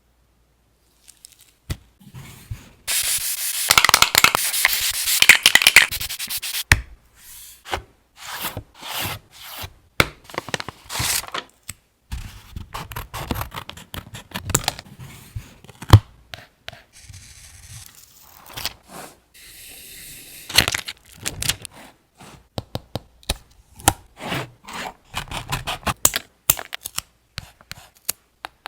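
Paper being handled for journal collage: crinkling, rubbing and tearing, with a dense stretch of rustling about three to seven seconds in, then scattered small crackles and taps.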